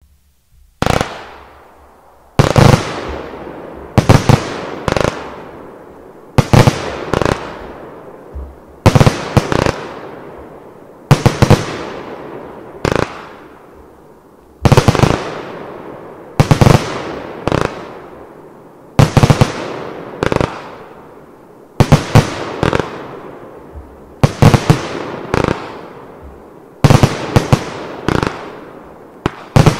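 A Vulcan 'Doppel-D' 144-shot firework cake firing: sharp reports come in clusters of two to four about every two seconds, each cluster trailing off in a fading hiss. Near the end the shots come quicker and closer together.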